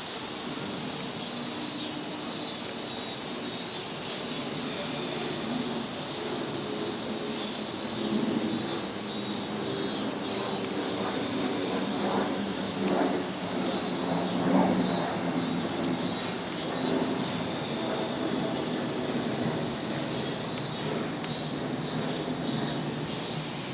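Summer insect chorus, a steady high-pitched drone, with fainter irregular lower sounds beneath it.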